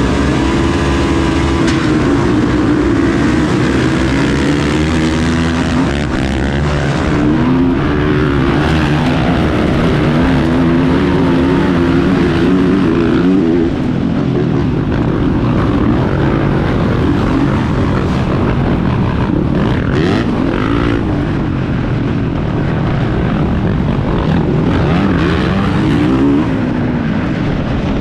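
Motocross bike engine running hard, its pitch rising and falling again and again as it revs up and drops back through the gears.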